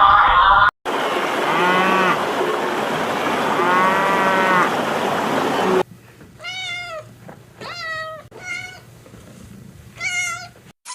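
Two drawn-out animal calls over a steady noisy background. After an abrupt cut near the middle, a cat meows four times in separate short calls.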